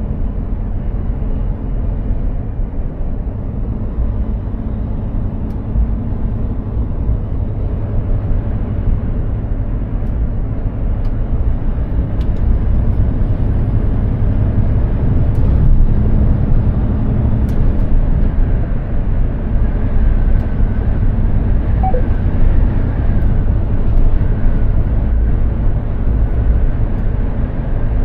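Mercedes-Benz Actros 2763 truck driving at speed: steady engine and road rumble that grows a little louder about a third of the way in.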